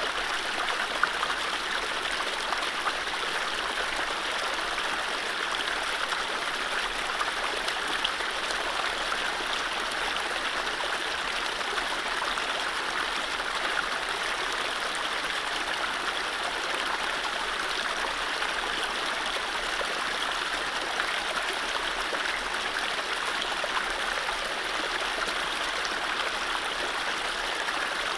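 Mountain stream running over low rapids: a steady rush of water with fine splashing and gurgling.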